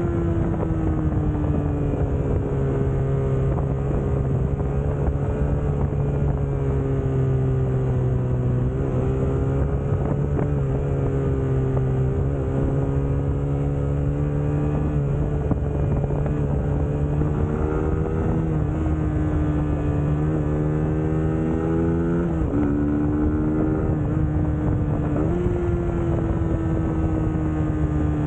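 Suzuki GSX-S150's single-cylinder four-stroke engine running under way at a fairly steady engine speed. Its pitch drifts slowly down and rises in short jumps a few times as the throttle changes, with some wind noise.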